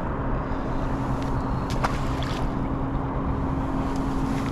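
Steady low hum of a boat motor running under a noisy background, with a few small clicks about two seconds in.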